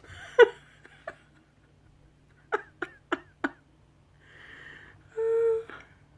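A bird pecking and striking window glass, attacking its own reflection: a few single sharp taps, then four quick taps about three a second. A short hummed laugh follows near the end.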